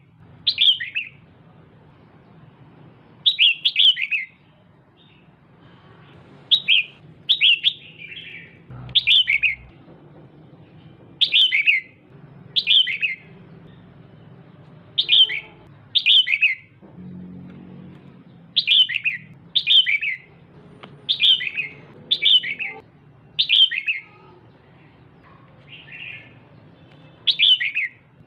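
Female red-whiskered bulbul calling: short, sharp calls that drop in pitch, often in close pairs, repeated about every second.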